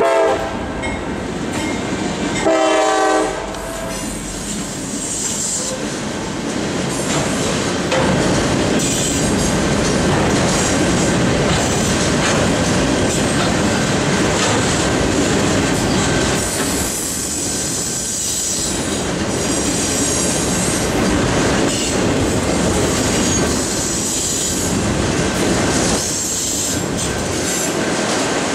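Freight train headed by a CSX GE C40-8W and an EMD SD50 sounds its horn twice for the grade crossing, a brief blast at the start and a louder one about three seconds in, then rolls past as a long string of autorack cars, their wheels clattering and squealing at times on the rails.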